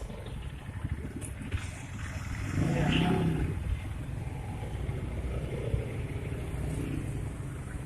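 Busy street traffic: a steady engine rumble, with one vehicle passing close and louder about three seconds in.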